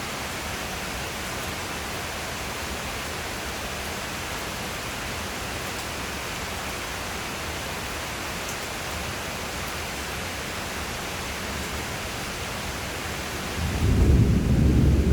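Steady rain falling as an even hiss. Near the end, a deep rumble of thunder rolls in and becomes the loudest sound.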